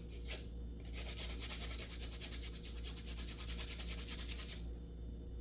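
Fresh ginger being rubbed over a hand grater in quick, even rasping strokes, starting about a second in and stopping shortly before the end.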